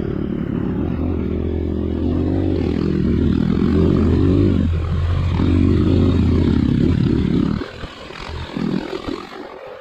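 Trail motorcycle engine running hard under throttle, pitch climbing, easing briefly a little under halfway through, then revving again before the engine sound drops away about three-quarters of the way through.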